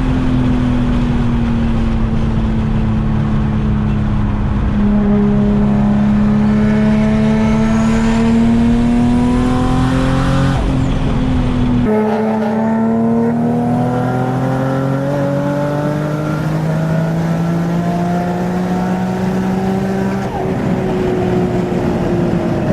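Big-turbo V6 of a 2004 Infiniti G35 coupe pulling hard under full acceleration, heard inside the car. The engine note dips a little, then rises steadily, breaks off about twelve seconds in and climbs again, then changes near the end.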